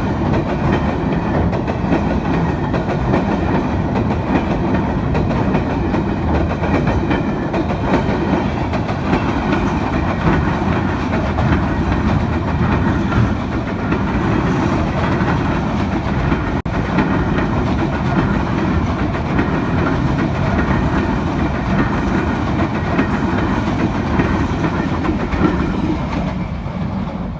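A train passing close by, its wheels running over the track in a continuous loud rumble that begins to die away near the end.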